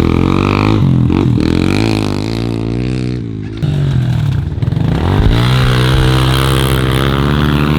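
Dirt bike engine revving, its pitch rising and falling as the throttle is worked. It drops off about three seconds in, then climbs again and holds steady at high revs near the end.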